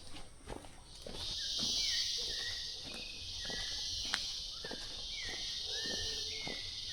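Rainforest ambience: footsteps on a leafy forest trail, with a loud steady high insect buzz that starts about a second in. A short chirp repeats roughly once a second over the top.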